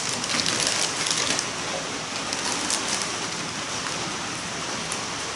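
Steady hiss of rain falling, with a few crackles from a small wood campfire in the first second or so.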